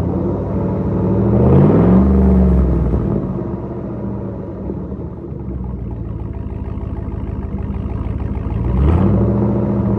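Cadillac Escalade V8 with its muffler deleted, exhaust running through 3-inch pipe, idling with a low rumble and revved twice: once about a second and a half in, dropping back to idle after about a second, and again near the end.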